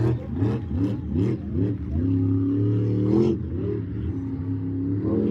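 Monster truck engine revving hard: several quick rises and falls in pitch over the first two seconds, then held high for about a second before dropping back and climbing again near the end.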